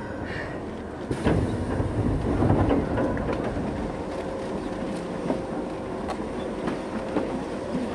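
Keisei 3400-series commuter train standing at a station platform. A sudden louder rumble about a second in dies away over the next two seconds, then a steady hum holds with a few sharp clicks.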